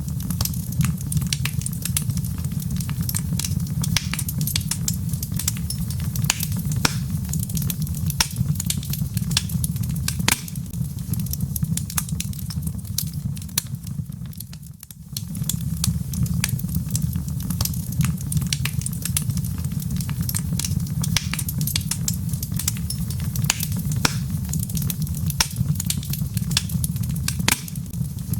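Wood fire burning in a fireplace, the logs crackling and popping in a dense, irregular stream of sharp snaps over a steady low rumble. The sound dips briefly about halfway through, then carries on as before.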